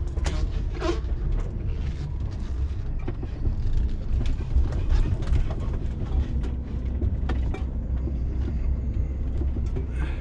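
Truck's diesel engine and drivetrain rumbling low, heard from inside the cab while manoeuvring slowly, with scattered short clicks and rattles.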